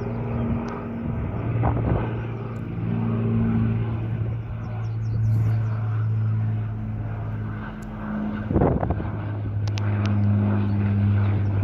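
Old propeller bomber's piston engines droning overhead, a steady low drone that swells and eases, with two short rushing noises about two and nine seconds in.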